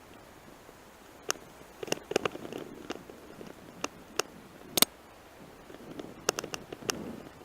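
Sharp, irregular clicks and knocks of a bicycle jolting over a rough forest road, loudest a little before five seconds in.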